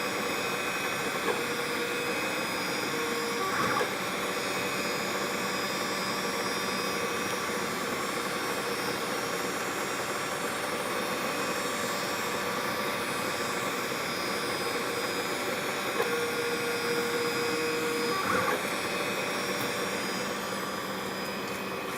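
SeeMeCNC Eris delta 3D printer running a print: a steady whir of its fans, with stepper motors sounding short held tones as the print head moves.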